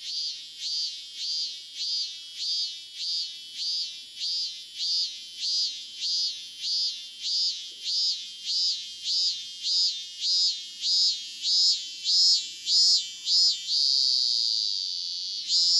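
A cicada singing: a steady run of high pulsing calls, about two a second, that grow louder, then one long drawn-out note near the end before the pulsing starts again.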